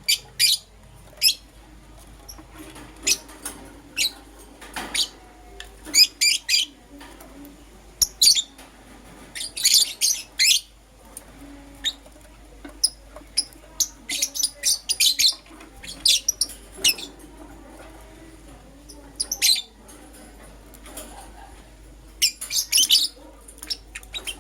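Lovebirds chirping: many short, sharp, high-pitched calls in irregular bursts and clusters, some quick runs of several chirps.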